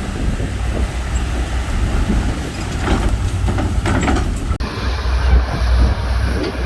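Diesel engine of heavy earthmoving machinery running with a steady low rumble, with scattered clanks and rattles. The sound changes abruptly a little past halfway through.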